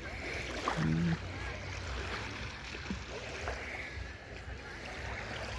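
Seashore ambience on the Gulf of Finland: small waves lapping and a steady low rumble, with faint distant voices and one short voice sound about a second in.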